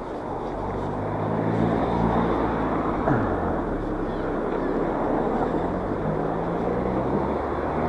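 Mountain bike being ridden: steady wind and riding noise on the camera microphone, under a low droning hum that shifts pitch in steps every second or two.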